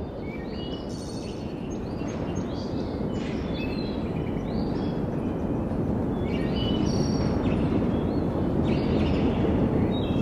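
Several birds chirping in short clusters of high notes every couple of seconds over a steady low rushing noise that slowly grows louder.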